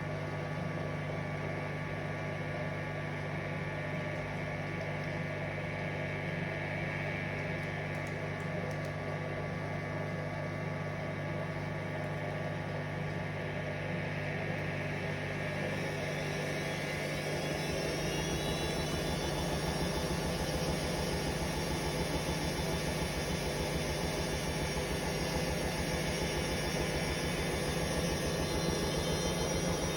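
Hoover Vision Dynamic washing machine on a spin cycle: a steady motor hum at first, then from about halfway the motor whine climbs in pitch as the drum speeds up. The sound grows a little louder and rumbles at the low end.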